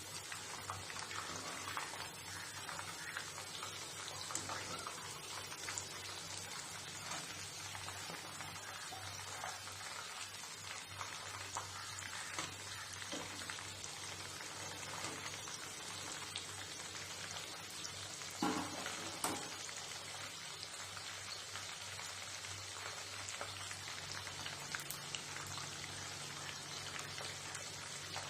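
Breaded chicken pieces deep-frying in hot oil, a steady crackling sizzle. A couple of brief knocks about two-thirds of the way in.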